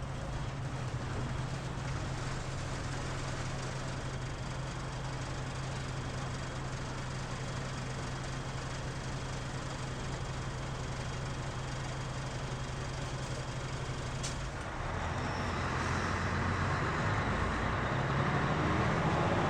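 Mitsubishi Fuso KL-MP37JK city bus heard from inside the cabin, its diesel engine idling with a steady low hum and the heavy vibration noise of this bus at idle. About fourteen seconds in, the engine note changes and the sound grows louder.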